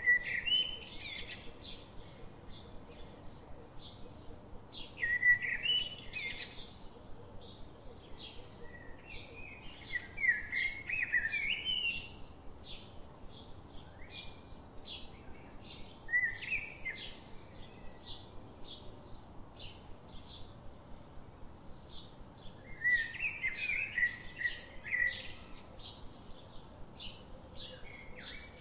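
Birds singing: warbling song phrases every few seconds over a steady run of short, high chirps, two or three a second.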